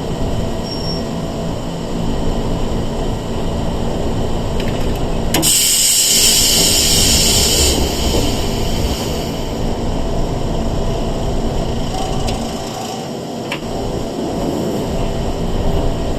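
Running noise heard inside a Sanki Railway 101-series electric train: a steady rumble of wheels and motors. About five seconds in comes a sharp click, then a loud hiss for about two seconds.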